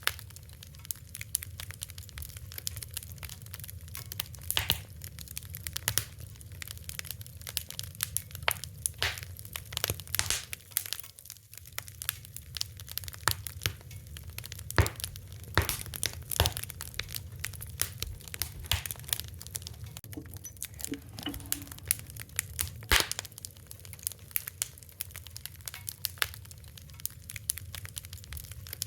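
Fire crackling, with many irregular sharp pops and snaps over a steady low rumble.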